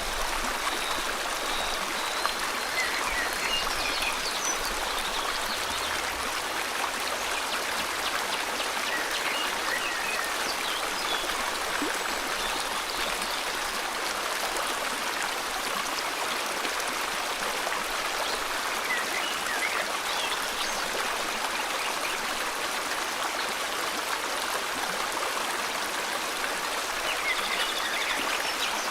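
River water flowing steadily, with a few short bird chirps scattered through it.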